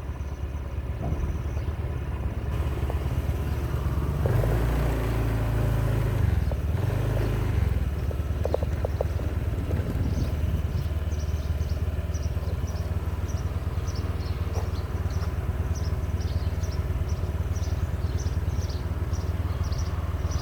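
Motorcycle engine running steadily while riding, its low note shifting between about four and eight seconds in. From about ten seconds in, faint high ticks repeat roughly twice a second.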